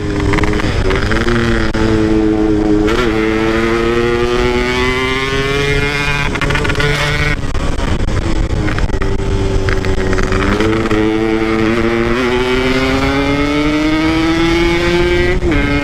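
Motorcycle engine running under way with a wind rush. Its note climbs slowly for long stretches, dips briefly a couple of times, and falls sharply near the end.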